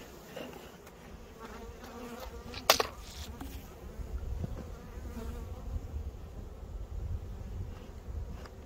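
Honeybees buzzing at a hive, with one sharp knock a little under three seconds in.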